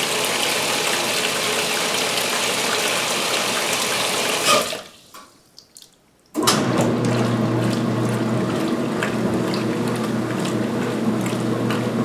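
2016 Speed Queen belt-drive top-load washer filling with water, the fill cutting off about four and a half seconds in. After a brief near-silent pause the motor starts and high-speed agitation begins, a steady hum with the towels and water churning.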